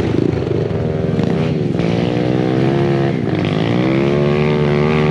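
Pit bike engine running under throttle while riding, its pitch dipping and climbing again twice, then held high.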